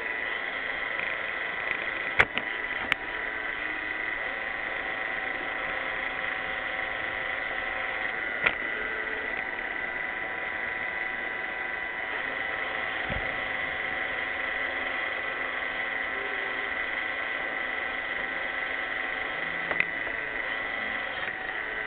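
iRobot Roomba 600 robot vacuum running, a steady whine of its vacuum motor and brushes with a high tone, broken by a few short sharp clicks.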